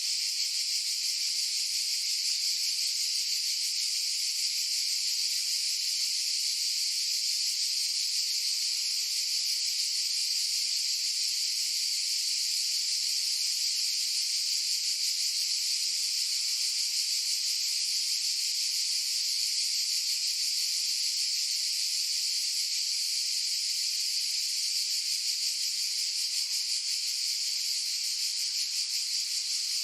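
Cicadas buzzing: a steady, unbroken high-pitched drone.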